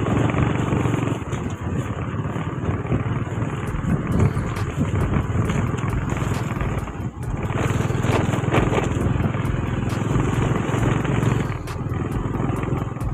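Motorcycle engine running steadily while being ridden, with wind noise on the microphone.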